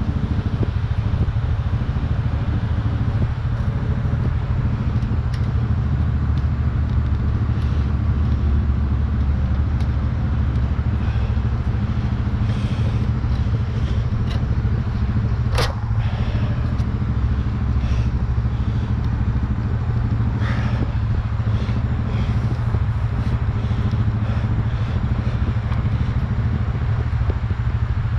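An engine running steadily at one speed, with one sharp click about halfway through and a few light knocks.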